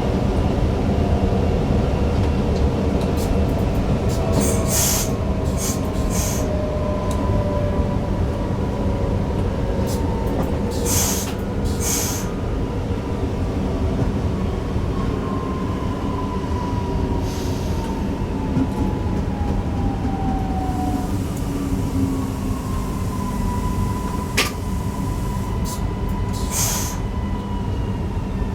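Newag Impuls EN63 electric multiple unit running, heard from the driver's cab: a steady rumble of wheels on rail under the whine of the traction drive, which slowly falls in pitch. A few short sharp clicks and hisses break in along the way.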